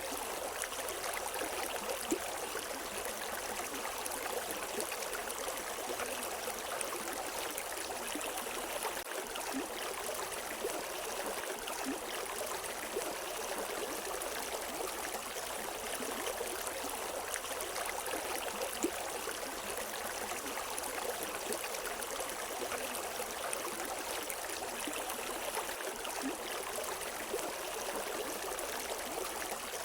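River water flowing in a steady rush, with small splashes and trickles over rocks; no birdsong.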